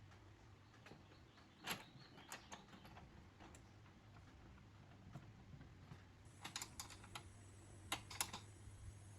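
Scattered light clicks and taps, one about a second and a half in and a quick run of them near the end, over a faint low steady hum.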